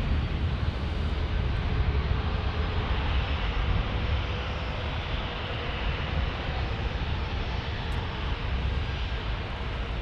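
Jet airliner's engines at takeoff thrust, a steady roar with a hiss that is strongest through the middle.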